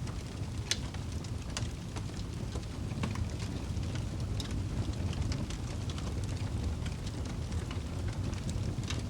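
Wood fire burning in a fireplace: a steady low rumble of flames with scattered sharp crackles and pops, one louder pop under a second in.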